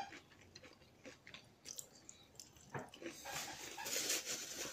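Quiet chewing of breaded fried fish with a few soft clicks, then from about three seconds in the crinkling rustle of a paper towel being crumpled between the hands.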